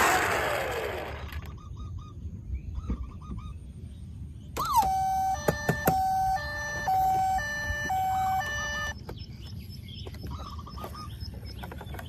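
Battery-operated toy vehicle's electronic tune: a short melody of clear beeping notes in steps, starting about four and a half seconds in and lasting about four seconds. A loud noisy sound at the start fades out within the first second, and faint short chirping tones sound around the tune.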